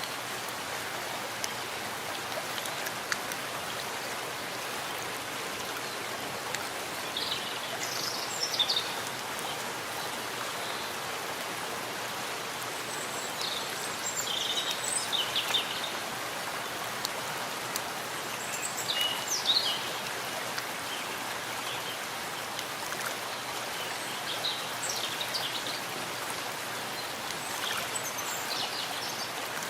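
Steady rain falling in a forest, an even hiss of drops. Short high chirps of a bird come through the rain every few seconds.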